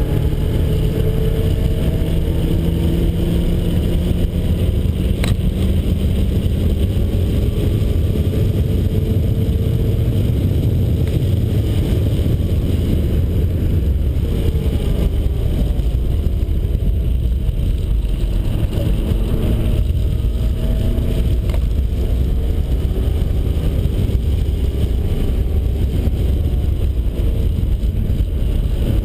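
Turbocharged 1.9-litre stroker four-cylinder of a 1991 Mazda Miata running hard at track pace, its pitch rising and falling repeatedly as it accelerates and slows for corners, over a heavy low rumble.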